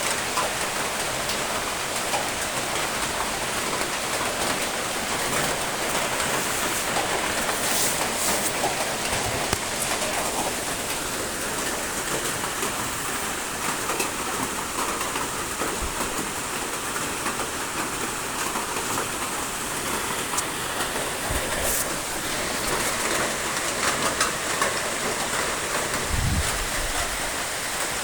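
Steady rain falling on surfaces, an even patter of drops, with a few soft low thuds here and there.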